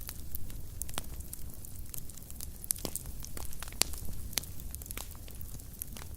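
Fireplace fire crackling: irregular sharp pops and snaps, several a second, some louder than others, over a low steady rumble of flames.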